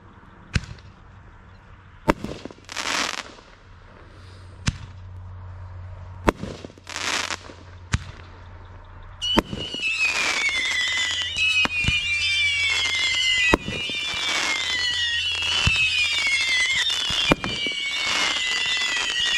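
Consumer fireworks going off: sharp bangs and crackling bursts every second or two. About nine seconds in, a louder barrage begins, with many whistles falling in pitch over further bangs.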